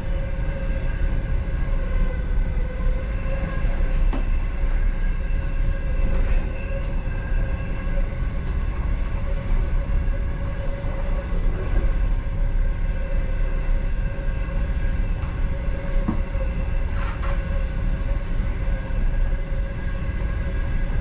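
Passenger train running at speed, heard from inside the last carriage: a steady rumble of the wheels on the track with a constant hum, and a few scattered clicks.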